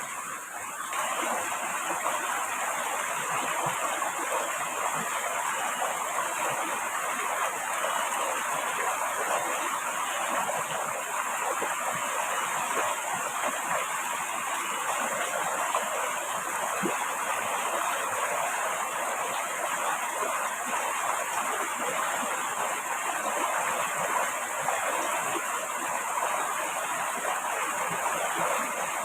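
Steady rushing water, getting louder about a second in and then holding even.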